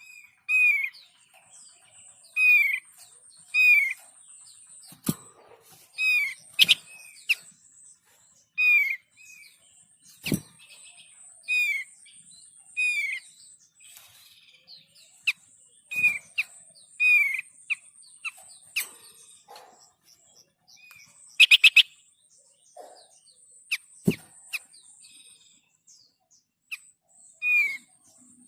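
Bird lure recording for the thick-billed white-eye: short chirped, down-slurred notes repeated roughly once a second, over a thin steady high trill. Sharp clicks are scattered through it, and a loud buzzy note comes about two-thirds of the way in.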